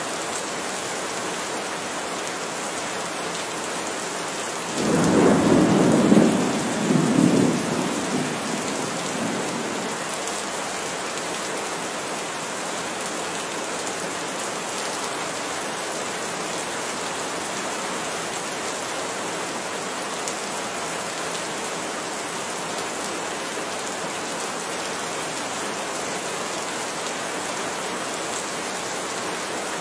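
Steady rain falling, with one peal of thunder about five seconds in that rumbles on for a few seconds and dies away.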